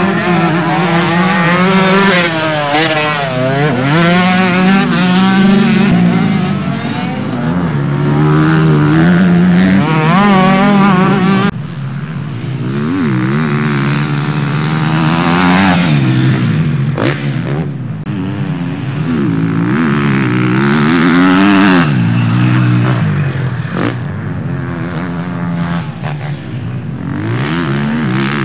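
Motocross motorcycles racing on a dirt track, several engines at once revving up and dropping back as they shift gears and brake for corners, with an abrupt change partway through.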